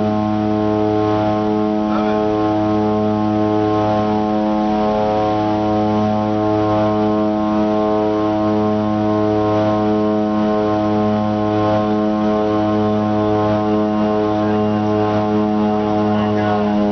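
Propeller aircraft's engines and propellers droning steadily with an even, pitched hum. The pitch begins to drop near the end.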